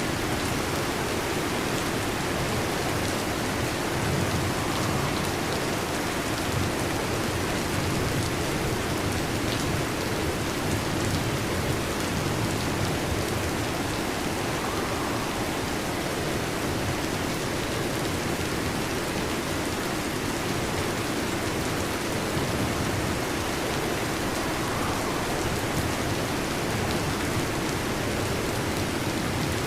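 Heavy rain falling steadily, an even, unbroken hiss with no change in level.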